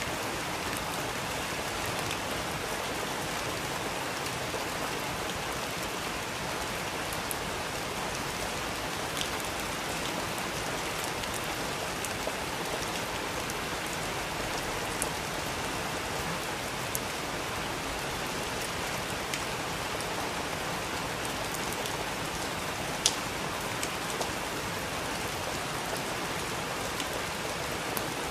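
Steady rain falling: an even hiss, with scattered sharper drops tapping now and then and one louder tap about two thirds of the way through.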